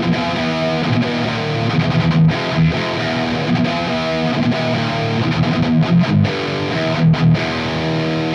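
Electric guitar played through an Ibanez Tube Screamer overdrive into a Mesa cabinet with a Vintage 30 speaker, picked up by a close microphone with no added processing. It plays an overdriven riff of chords and notes that rings on without a break.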